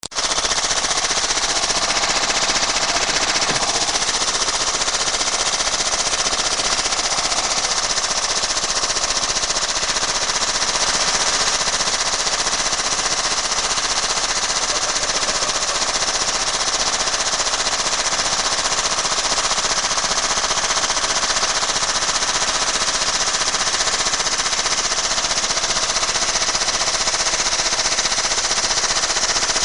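Washing machine spinning with a brick loose in the drum: a loud, rapid, unbroken clatter of the brick hammering against the drum, steady throughout.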